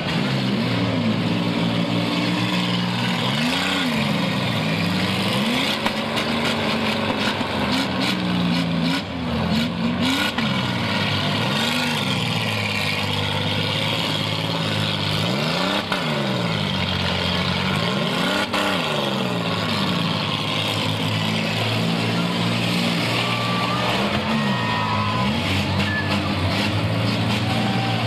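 Demolition derby car engines revving up and falling back again and again as the cars push and ram each other, over the noise of spinning tyres, with a few sharp crashes of metal.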